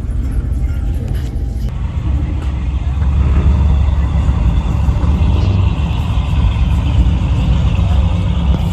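A truck engine running loud and low, growing louder about three seconds in and holding there.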